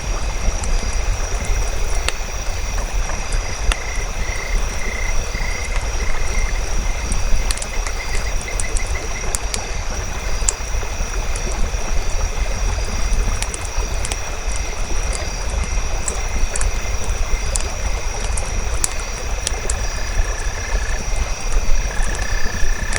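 Campfire crackling, with many sharp scattered pops over a steady low rumbling hiss. Behind it run a steady high whine and short trilling animal calls, with a thinner steady call near the end.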